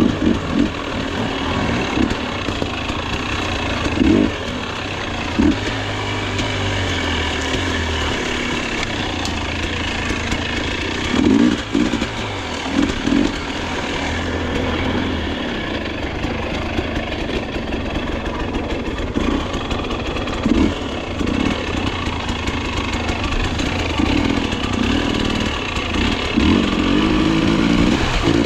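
Dirt bike engine running while riding a rough trail, with the throttle blipped in short revving bursts every few seconds and held longer near the end.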